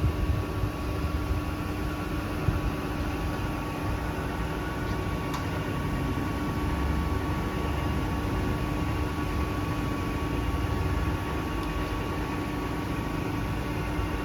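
Grisetti RU 2000 hydraulic cylindrical grinding machine running steadily: an even motor and hydraulic hum with two steady tones over a low rumble, and a short click about two and a half seconds in. It runs smoothly, with no knocking or abnormal noise.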